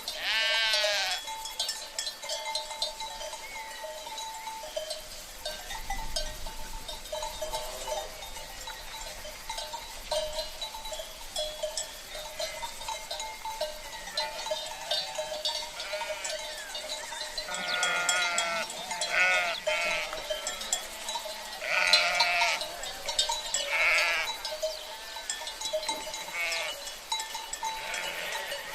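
A flock of sheep bleating: one call right at the start, then several overlapping calls in the second half. Through it all runs the steady clanking of sheep bells.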